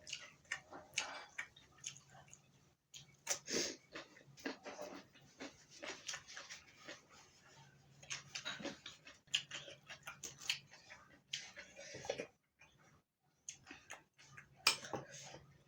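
Close-miked mouth sounds of someone eating chicken curry with rice: irregular wet chewing, lip smacks and clicks, with two short pauses.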